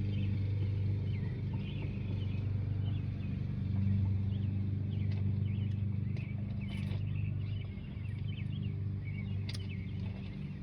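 A steady low engine hum, with small birds chirping over it and a couple of sharp clicks.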